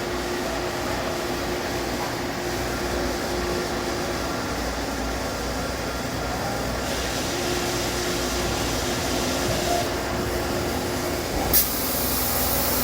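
Star ECAS 20T CNC Swiss-type lathe running, its axes homing and moving, with a steady hum. A sharp click near the end is followed by a loud hiss.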